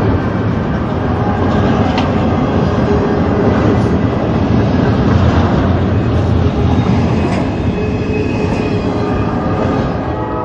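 A train rolling past close by: a steady, loud rumble and rattle of wheels on rail.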